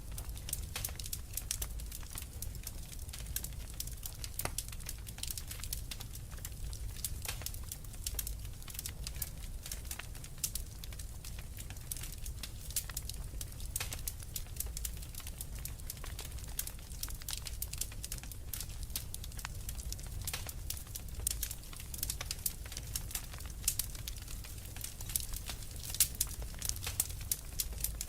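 Wood fire in a fireplace crackling steadily, with dense, irregular sharp pops over a low rumble of the burning.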